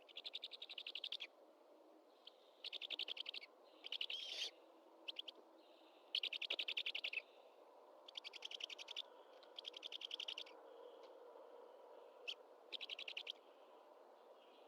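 A bird calling in a rapid pulsed trill, repeated in eight bursts of about a second each over a faint steady background.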